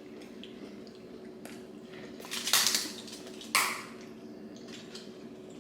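Mealtime noises at the table: two short, loud, noisy sounds about a second apart, about halfway in, from eating and handling the food and tableware, over a steady low hum.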